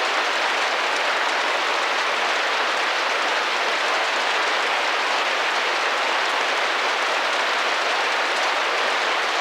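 Steady rain pattering against a window pane, an even dense hiss of drops with no breaks.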